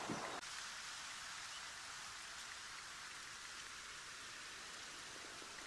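Faint, steady outdoor background hiss with no distinct events, after a brief rustle in the first half second.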